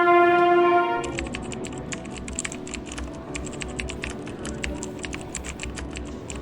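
A train horn sounding one steady chord, which cuts off about a second in. It gives way to rapid, irregular clicking over a low rumble.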